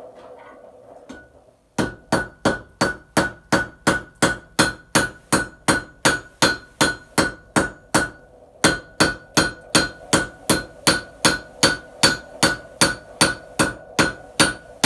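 Hammer blows on hot steel at the anvil, a steady run of about three strikes a second, each with a short metallic ring. The hammering starts a couple of seconds in and breaks off briefly past the middle before carrying on.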